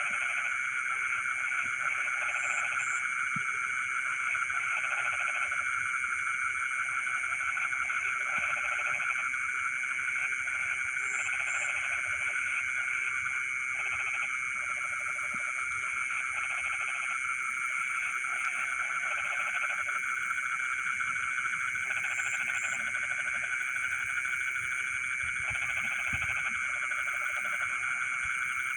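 Chorus of frogs calling in flooded rice fields: a steady, dense trilling drone with croaks repeating about every second in short bouts, and a faint high double chirp every ten seconds or so.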